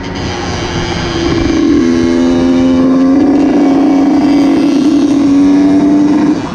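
Motorcycle engine running at high, steady revs, its pitch stepping down about two seconds in and then climbing slowly. The sound briefly drops in level near the start and again near the end.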